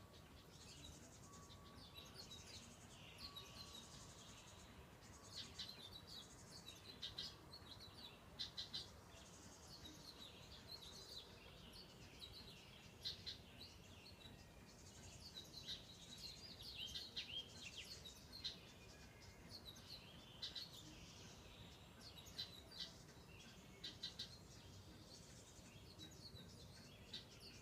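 Several small birds chirping and twittering, many short high calls overlapping throughout.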